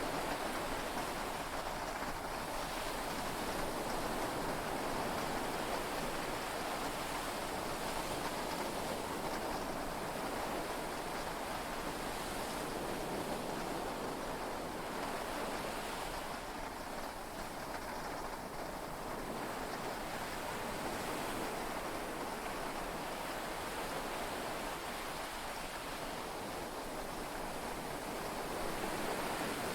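Heavy rain and sea waves heard from inside a yacht cabin: a steady wash of noise that swells and eases slowly, with no distinct thunderclap.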